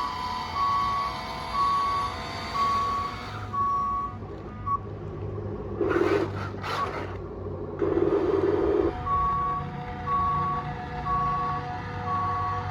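Reversing-alarm beeping from an RC construction toy's sound module, an even beep repeating a little faster than once a second. The beeping stops for a few seconds near the middle, when a low motor hum and two short noisy bursts are heard, then starts again.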